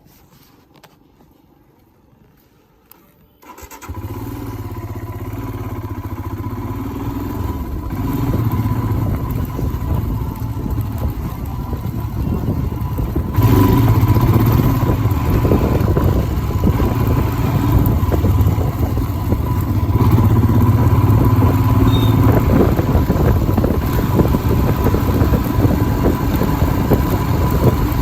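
Royal Enfield Himalayan's single-cylinder engine starting about three and a half seconds in, then running steadily, getting louder about halfway through.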